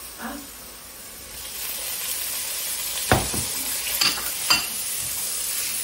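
Food sizzling as it is stir-fried in a wok, the sizzle growing louder about a second and a half in. A spatula stirs and knocks sharply against the pan three times in the second half.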